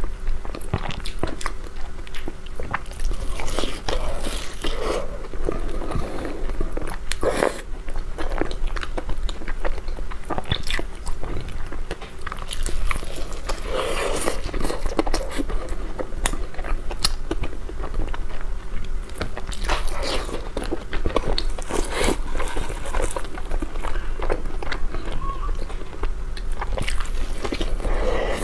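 Close-up eating sounds: repeated biting and chewing of a snow taro paste pastry with egg yolk filling, with many short wet mouth clicks and smacks, over a low steady hum.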